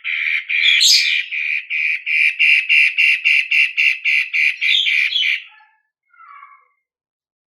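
Long-tailed shrike (cendet) singing: a fast, even run of short repeated notes, about three a second, that stops about five and a half seconds in, followed by one brief faint call.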